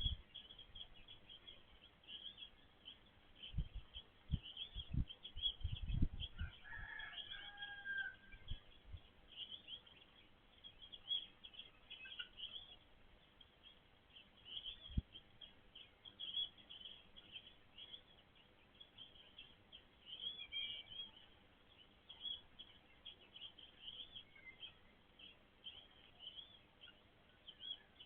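Birds chirping in a backyard: a steady run of small, high chirps, with a louder call about six seconds in. A few dull low thumps come between about three and six seconds and once more near the middle.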